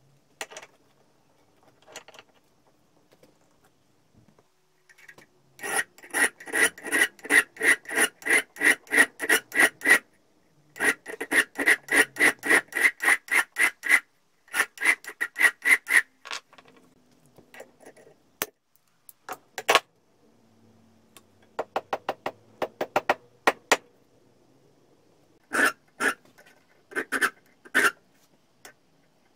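Rapid back-and-forth scraping strokes, about four a second, in runs of a few seconds with short pauses between them: a rusty metal part being cleaned up by hand with an abrasive tool.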